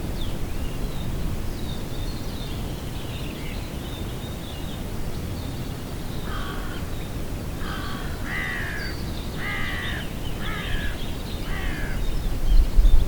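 A bird calling outdoors: a run of about six short, harsh calls starting about halfway through, over faint high chirping of small birds and a steady low rumble that swells near the end.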